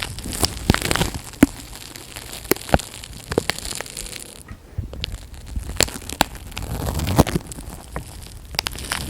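Close-miked ASMR handling sounds: irregular crinkling and crackling with sharp clicks, thinning out briefly about halfway through.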